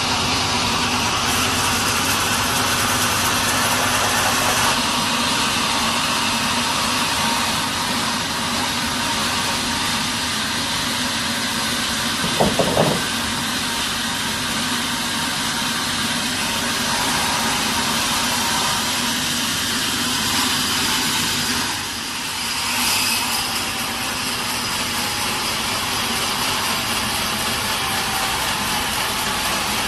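Sawmill machinery running steadily, a loud continuous mechanical noise with a steady hum, with a brief clatter about twelve seconds in.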